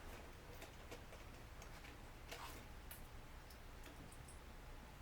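Faint, irregular small clicks and ticks from hand tools and tiny parts being handled during close bench work on a drone, over a low steady hum.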